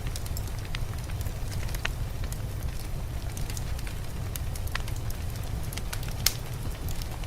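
Wood fire crackling in a fireplace: scattered small pops and snaps, with one louder pop about six seconds in, over a steady low rumble.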